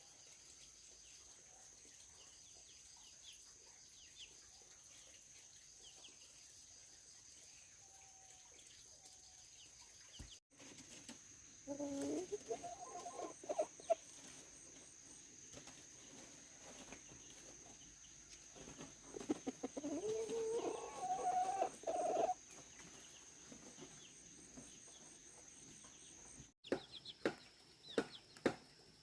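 A rooster crowing twice, each crow lasting two to three seconds, over a steady high-pitched whine. A few sharp clicks come near the end.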